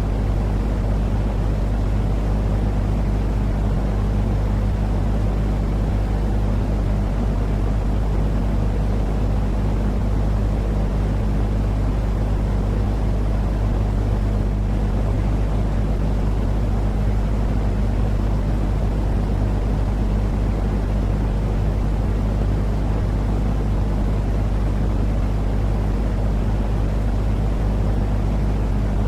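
Continuous low rumbling drone with a steady hum under it, unchanging throughout: a baby sleep-aid noise track.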